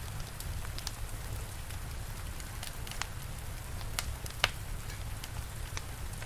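Steady rain with a low rumble under it, and a crackling fire giving scattered sharp pops, a few of them around three to four and a half seconds in, the loudest near the end.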